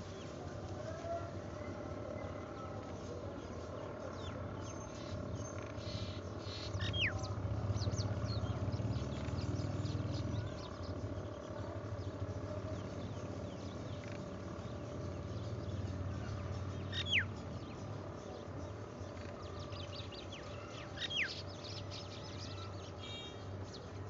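Birds calling: three sharp chirps that fall quickly in pitch, spaced well apart, over a steady low hum and faint outdoor background noise.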